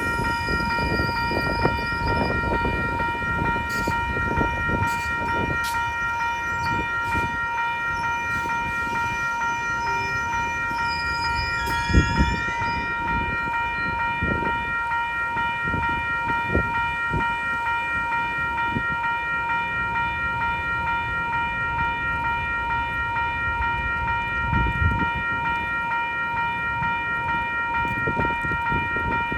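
A railroad crossing warning bell rings on and on as a steady ringing tone, while strong wind buffets the microphone with a low rumble. There is a sharp thump with a brief squeal about twelve seconds in, and another thump near the end.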